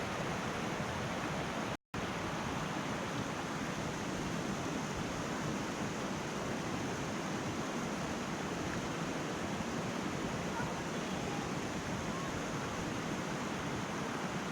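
Steady rushing of water from the Putna waterfall, an even noise with no break except a brief cut to silence just under two seconds in.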